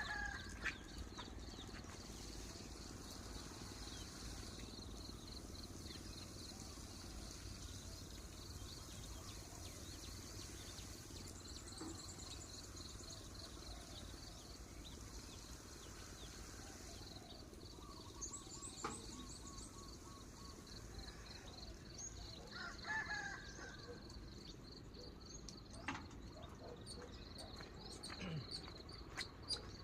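Faint rural field ambience: an insect chirping steadily in rapid high pulses, with a few short bird chirps and scattered light clicks.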